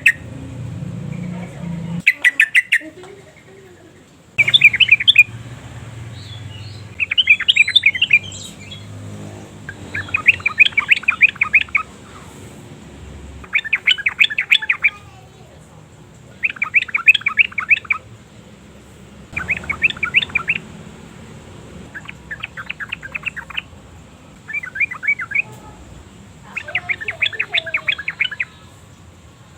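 Yellow-vented bulbul singing in repeated phrases: bursts of rapid chattering notes, each about a second long, coming every two to three seconds.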